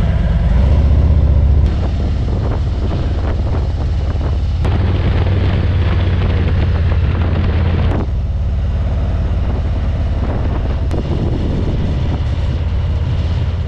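Harley-Davidson V-twin motorcycle engine running under way, a steady low rumble with wind rushing over the microphone; the level jumps abruptly a few times.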